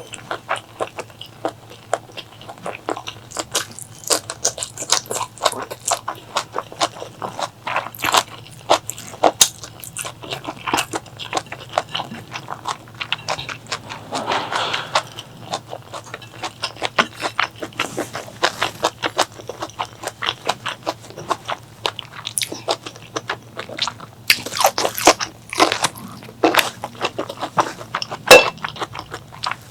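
Close-miked chewing and biting of food: a steady run of wet clicks and crunches, with a brief louder smacking stretch about halfway through.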